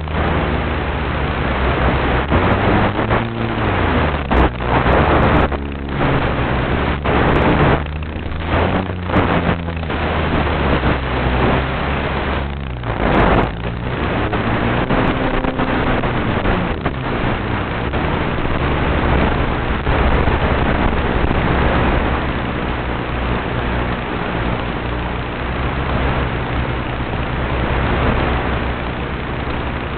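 Flex Innovations RV8 RC aeroplane's motor and propeller running in flight, the pitch rising and falling with throttle changes, over a constant rush of wind noise. In the first half the sound briefly cuts out several times.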